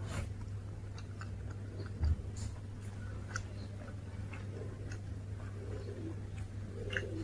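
Close-miked chewing of soft food, with small wet mouth clicks scattered throughout, over a steady low hum. A dull bump about two seconds in is the loudest sound.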